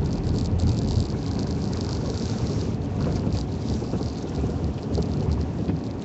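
Vehicle on snow tires driving over a snow- and ice-covered road, heard from inside the cabin: a steady low rumble with a dense crackling of tyres on snow and slush, getting quieter near the end.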